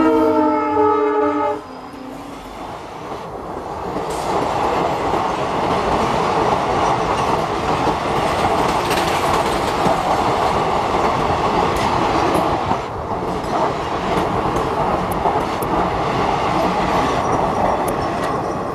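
WDP-4D diesel locomotive's multi-note air horn sounding, cutting off about a second and a half in. After it comes the steady rumble and clickety-clack of passenger coaches rolling past at speed, with scattered clicks from the wheels over rail joints.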